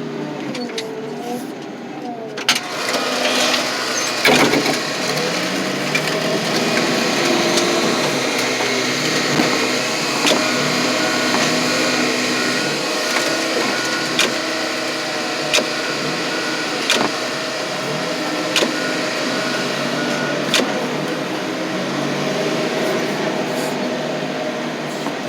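Car crusher's engine running under load as its hydraulics crush the trucks, its pitch wavering up and down, with about eight sharp cracks and pops of the body giving way, the loudest about four seconds in.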